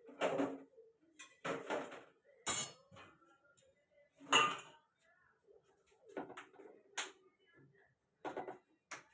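Kitchen utensils knocking and clinking while rotis are being made: a string of separate short knocks and clatters, the sharpest about two and a half seconds in.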